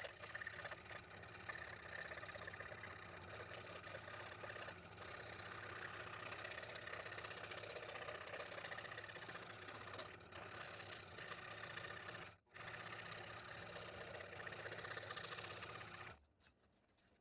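Scroll saw running steadily, its blade cutting through thin wood, with a brief break about twelve seconds in, then it stops shortly before the end.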